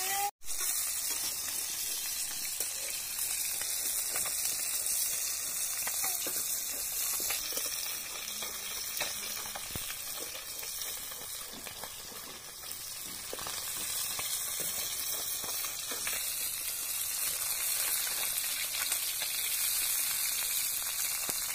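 Small fish frying in hot oil in a wok, a steady sizzle with a brief break about half a second in.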